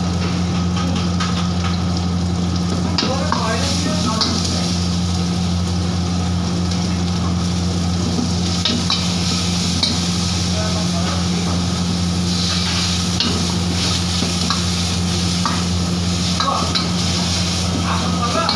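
Onions and vegetables sizzling and frying in a large wok over a high burner flame, while a metal ladle stirs them, scraping and knocking now and then against the wok. A steady low hum runs underneath.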